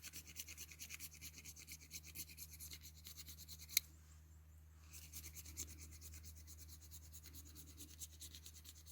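Fire steel (ferro rod) scraped with its small striker in quick, quiet, even strokes, shaving off flakes onto the tinder before striking sparks. One sharp click comes about four seconds in, followed by a short pause in the scraping.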